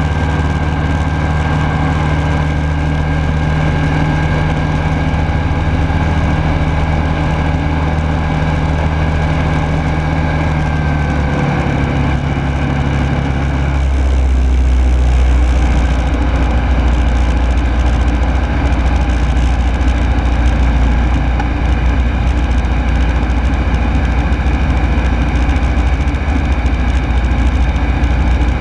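Rotax 912S flat-four engine and propeller of a Rans Coyote S6 ultralight, running steadily in flight as heard from the cockpit. About halfway through, the engine note steps down to a lower pitch and the overall sound grows slightly louder.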